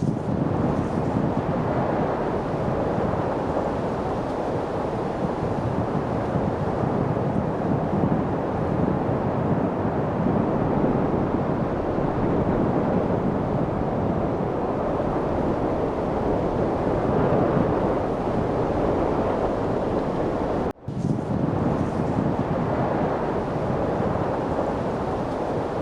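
Steady wind noise, an even rushing that swells and eases only slightly. It breaks off for an instant about 21 seconds in and resumes unchanged.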